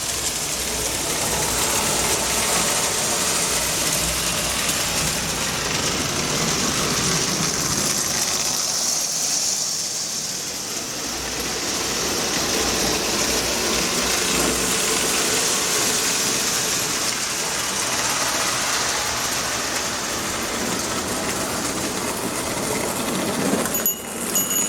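Marx 1666 toy electric locomotive running on its track with its cars: a steady mechanical whir and rattle that eases slightly about halfway through.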